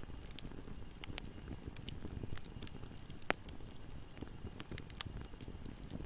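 Campfire burning: a steady low rumble of flames with irregular crackles, and two louder sharp pops, the first about three seconds in and the second near the end.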